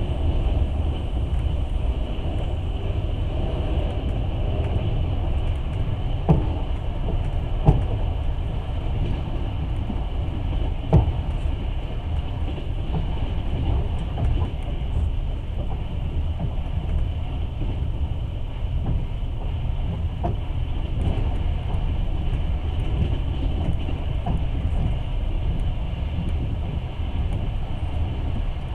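Passenger train running along the track, heard from inside the carriage: a steady low rumble and hiss of the wheels on the rails, broken by three sharp knocks between about six and eleven seconds in.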